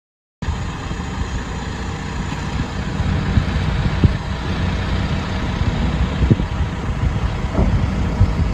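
A vehicle running: a steady low engine and road rumble with scattered short knocks, starting abruptly just under half a second in.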